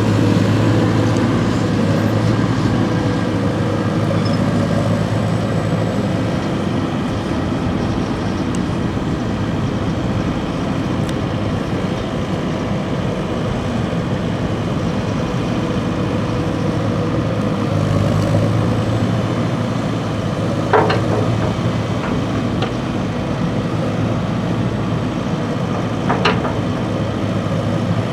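Heavy diesel machinery running steadily with a deep hum, with two sharp clanks partway through and near the end.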